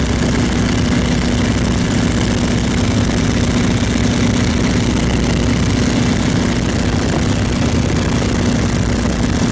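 Boeing Stearman biplane's radial engine and propeller running steadily in flight: an unchanging drone with a steady hum and a constant rushing noise over it.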